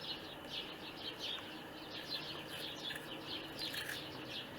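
Small birds chirping: a steady run of short, high, downward-sliding chirps, several a second.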